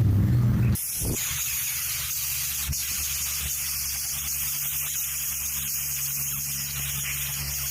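A steady hiss with a faint low hum underneath, after a louder low drone that cuts off abruptly less than a second in.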